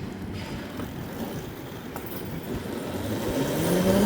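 Electric dirt bike running over a steady rumble of tyre and wind noise; about three seconds in, its motor whine starts and rises in pitch as the bike speeds up.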